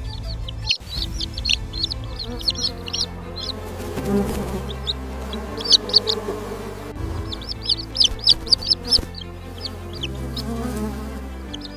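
Birds chirping in quick bursts of short high peeps, over background music with sustained low notes.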